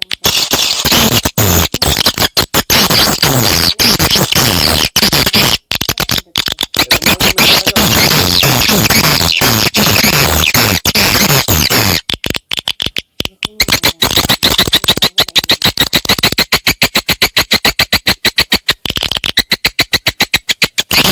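Edible-nest swiftlet calls: a dense, chattering stream of fast chirps and clicks that about two-thirds of the way in settles into an even, rapid pulsing chirp several times a second. It is a swiftlet-house lure recording, played to draw swiftlets in to roost and nest.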